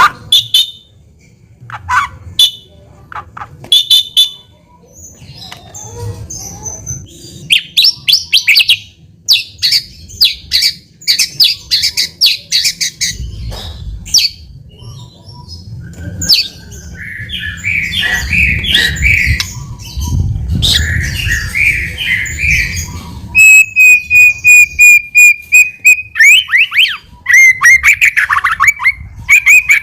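White-rumped shama singing a varied, loud song: sharp clicks and quick chattering phrases, a long held whistle about two-thirds of the way through, then rapid trills.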